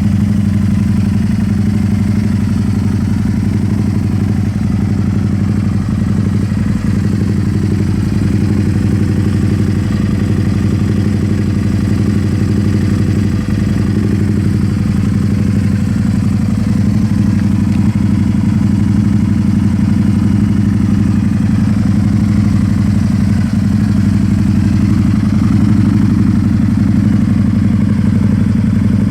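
Can-Am Spyder RS-S three-wheeler's V-twin engine idling steadily through an aftermarket Yoshimura exhaust.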